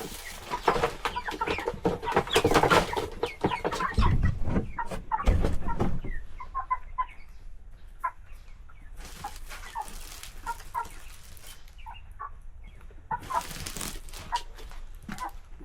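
Chickens clucking with short repeated calls, over busier rustling and knocking noise with two low thumps in the first six seconds.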